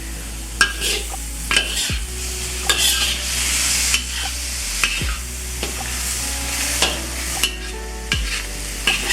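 Chicken and vegetables sizzling in a stir-fry pan while they are stirred, with the utensil knocking and scraping against the pan about once a second.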